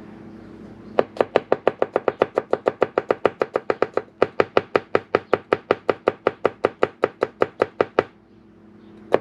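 Kitchen knife rapidly slicing garlic on a cutting board: a quick, even run of knife strikes, about seven a second, that pauses briefly in the middle and stops about a second before the end.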